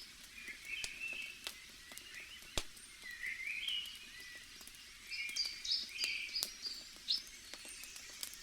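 Small birds chirping in short repeated phrases over the scattered pops and crackles of a wood fire, with one sharper pop about two and a half seconds in.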